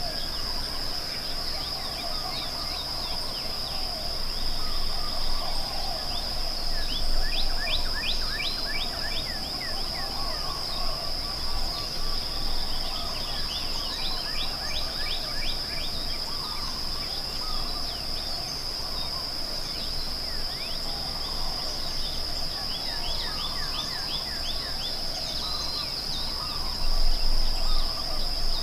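Several birds singing and calling, with quick runs of descending notes, over a steady high-pitched insect drone.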